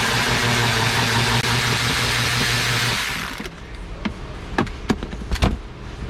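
Power ratchet on a long socket extension spinning out a bolt, running steadily for about four seconds and then stopping, followed by a few sharp clicks and taps.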